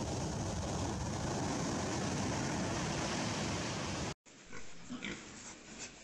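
Steady rushing beach noise of wind and surf for about four seconds, then a sudden cut to domestic pigs grunting a few times.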